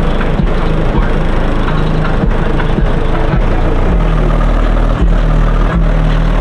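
High-powered car audio system playing a rap track at very high volume, dominated by heavy, distorted bass notes; the bass shifts to a new, deeper note about three and a half seconds in.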